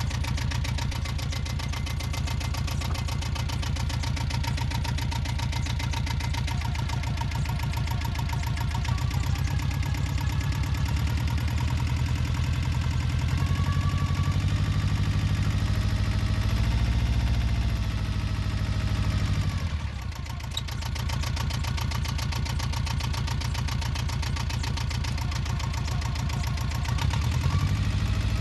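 Yanmar 2GM two-cylinder marine diesel running with a rapid, even beat of firing pulses. Its revs climb from about a third of the way in, fall sharply about two-thirds through, then pick up again near the end.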